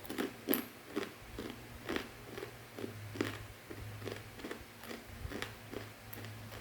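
Close-up chewing of crunchy fried macaroni snack sprinkled with Bon Cabe chili, a steady run of crisp crunches about two a second, loudest in the first second.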